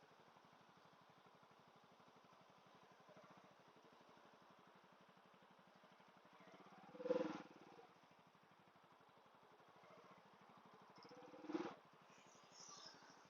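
Motorcycle engine with a sport exhaust running faintly and steadily, with two short louder sounds about seven and eleven and a half seconds in.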